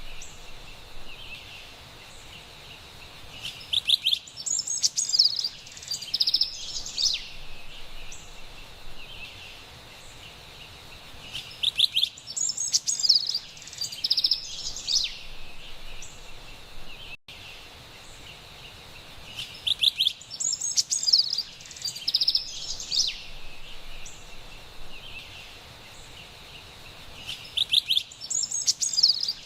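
Carolina wren songs: bouts of rapid, loud repeated phrases about every eight seconds, each lasting a couple of seconds, over a faint steady forest hiss. A momentary dropout about halfway through.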